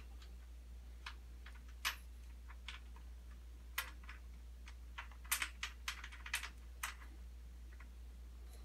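Metal hand tools clinking as a wrench is fitted to bolts and nuts: a series of sharp, irregular clicks, coming closer together about five to seven seconds in.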